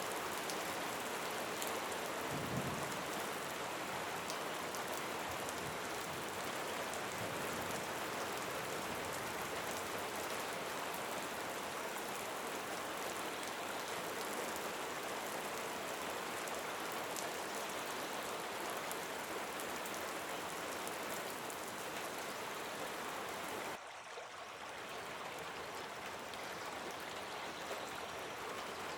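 Steady rain falling: an even, continuous hiss with fine patter of drops. About three-quarters of the way through it briefly drops quieter and thinner, then carries on.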